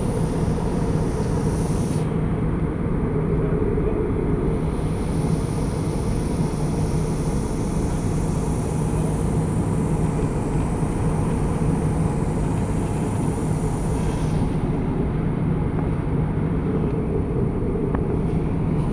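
Aircraft cabin noise in flight: a steady rush of engine and airflow noise with a low hum and a faint high whine, unchanging throughout.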